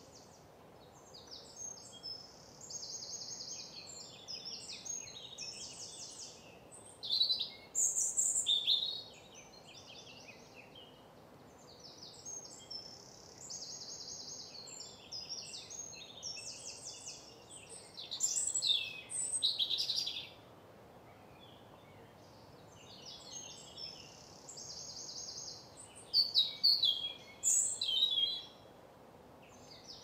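Songbirds singing in woodland: high, fast trills and chirps recur every few seconds, with three louder bursts of varied notes about ten seconds apart, over a faint steady background rumble.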